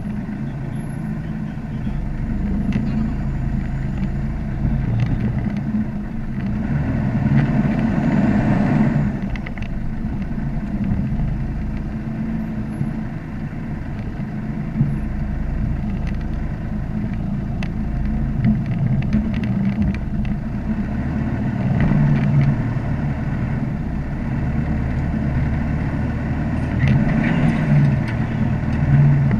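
Off-road 4x4's engine running with its revs rising and falling, louder about eight seconds in and again near the end.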